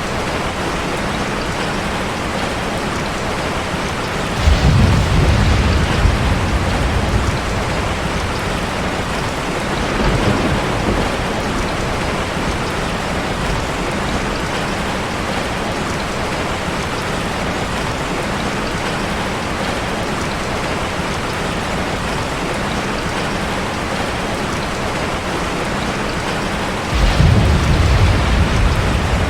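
Heavy rain falling steadily on a car. Low rumbles of thunder come in suddenly about four seconds in, more faintly about ten seconds in, and again near the end.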